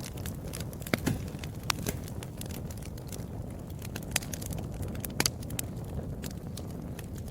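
Wood fire crackling: a steady low rumble of burning with irregular sharp pops and snaps, a few of them louder, about a second in and around four and five seconds.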